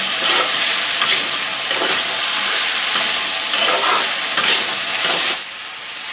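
Chicken pieces sizzling in hot oil with ground spices in a kadai, a spatula stirring and scraping them around the pan in repeated strokes. The scraping stops near the end, leaving a quieter steady sizzle.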